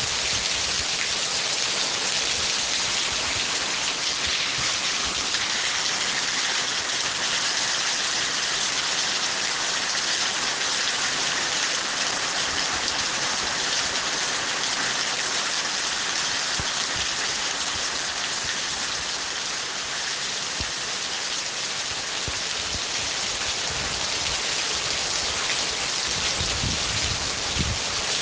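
Steady, dense rainfall, a continuous hiss of drops with a low rumble near the end.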